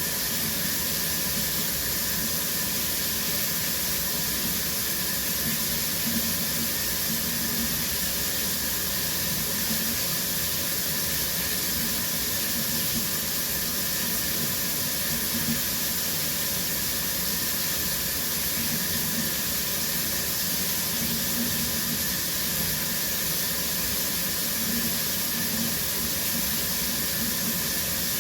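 Shower running steadily: a continuous spray of water hissing onto the shower floor and tiles, with no change.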